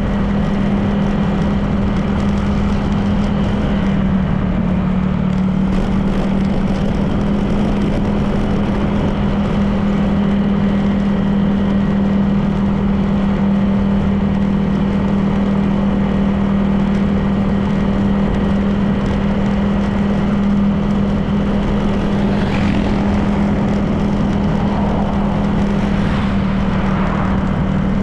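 Honda PCX 160 scooter's single-cylinder engine running at a steady cruising speed, an even drone with road and wind noise.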